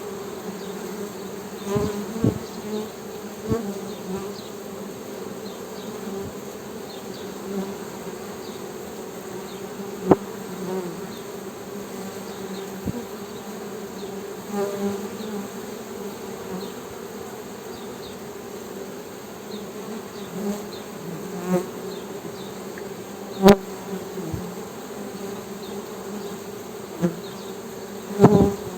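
Honey bees humming in a steady drone, with louder buzzes every few seconds as bees pass close. A few sharp clicks cut through, the loudest about two-thirds of the way in.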